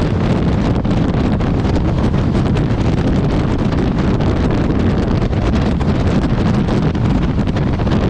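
Heavy wind buffeting the microphone of a moving motorcycle: a loud, steady rush of noise, strongest in the low end.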